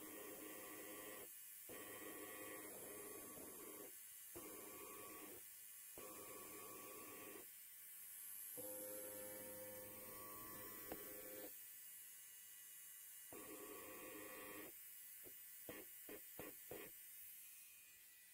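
Electric hair clipper buzzing faintly, in stretches of a second or two that repeatedly break off and start again, with several quick short bursts near the end.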